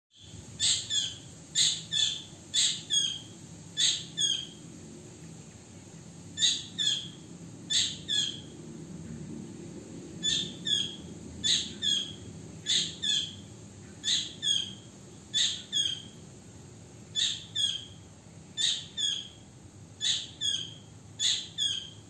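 A bird calling in short, sharp chirps that come in pairs, the pairs repeated about once a second with a couple of brief pauses. The chirps are loud and close to the microphone.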